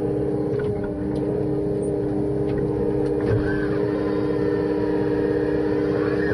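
A hydraulic chainsaw kit and the machine driving it run steadily, giving a constant drone with an even whine, while sectioning wood.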